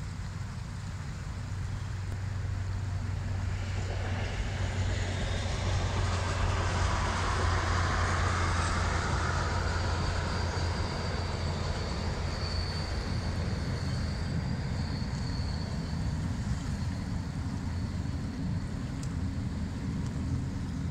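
FrontRunner diesel commuter train passing over a bridge: its rumble and rail noise swell over a few seconds, are loudest a few seconds before the middle, then fade as it moves off. A thin steady high tone rings for several seconds mid-pass, over the constant rush of a fast, full river.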